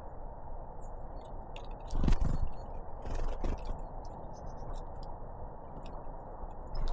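Great tits and blue tits pecking and scraping at the feeder close to the microphone: scattered sharp taps and scrapes, the loudest cluster about two seconds in, over a steady low hiss.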